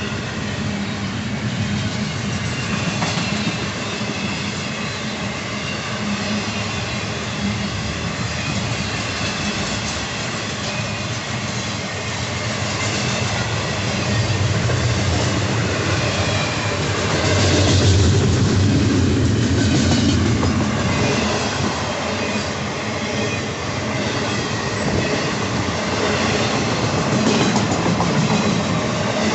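Florida East Coast intermodal freight train cars rolling past slowly, wheels clicking and clattering over the rail joints in a steady rumble that swells a little past the middle.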